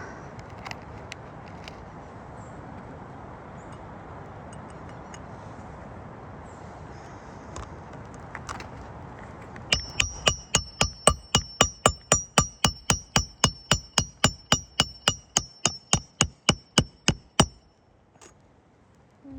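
A hammer striking metal in a fast, even run of about thirty blows, roughly four a second, each with a bright metallic ring. It starts about halfway through and stops a couple of seconds before the end.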